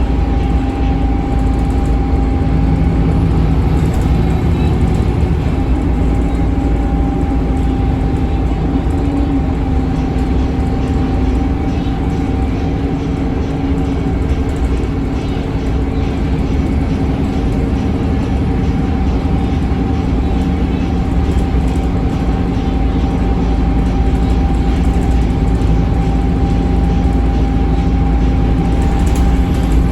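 Scania K280UB bus's DC9 five-cylinder diesel engine and ZF Ecolife automatic transmission running under way: a steady low drone with a steady high whine over it.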